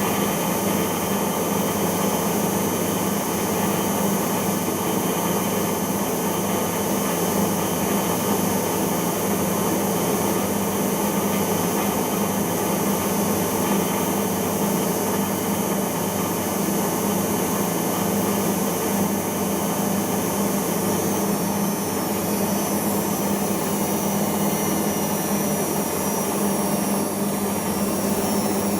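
Siemens iQ washing machine spinning at speed in the intermediate spin of a cotton wash: a steady motor whine over the rush of the turning drum. About twenty seconds in, a high tone starts to drift slightly.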